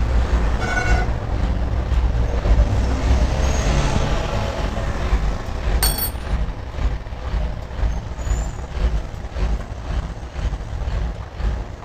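Heavy diesel truck engine running with a steady low rumble. A brief high tone sounds about a second in, and a sharp metallic clink rings out about six seconds in.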